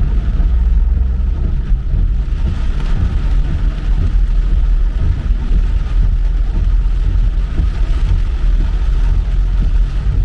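Car driving on a wet road: a steady low rumble of engine and road noise with an even hiss of tyres on wet asphalt.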